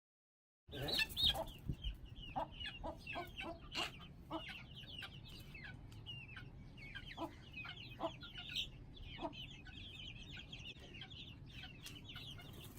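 Young Aseel chicks, about 50 days old, peeping in a steady stream of short, high, falling chirps, with a few lower clucking notes. The sound begins about a second in, with a few low thumps in its first second or two.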